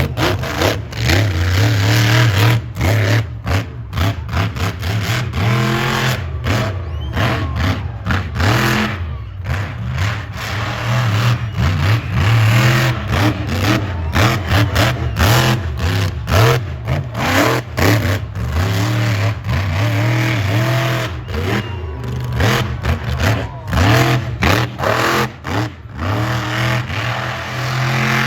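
Monster truck engine revving hard, again and again, its pitch rising and falling with quick blips of the throttle over a deep rumble.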